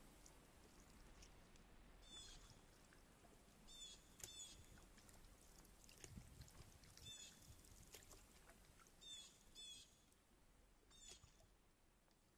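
Faint bird chirps over near silence: short, quick calls repeated every second or two, with the background fading away near the end.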